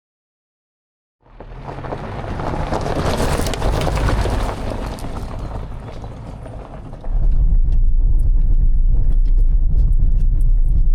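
Strong wind buffeting the microphone with a deep, rough rumble. It starts suddenly after silence and gets louder about seven seconds in.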